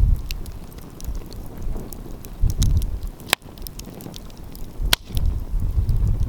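Wood fire crackling, with scattered small pops and two sharp, louder pops about three and a half and five seconds in. Wind gusts rumble on the microphone.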